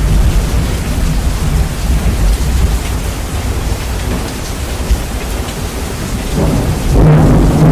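Heavy rain with rumbling thunder, bass-boosted so the low end is very loud. About seven seconds in it jumps louder and a steady low hum comes in.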